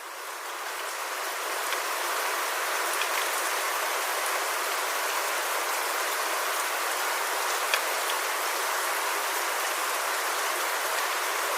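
A steady, even hiss like rain or rushing water, fading in over the first two seconds, with a couple of faint ticks in it.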